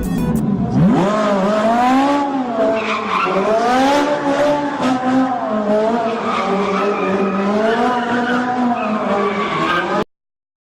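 Car tyres squealing in a long skid, the pitch swooping and wavering up and down, then cutting off abruptly near the end.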